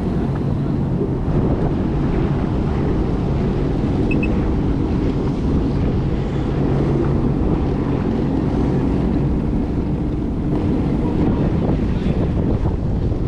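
Jet ski engines running steadily, with wind buffeting the microphone.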